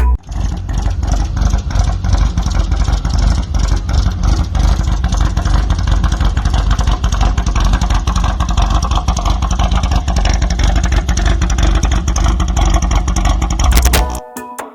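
Air-cooled Volkswagen engine running loudly, its exhaust beating in a fast, even pulse; it cuts off suddenly near the end.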